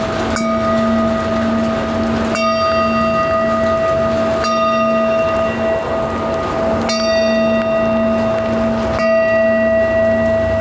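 Bell tones struck about every two seconds, each strike adding bright high overtones on top of a steady sustained ringing. Underneath is an even rain-like hiss.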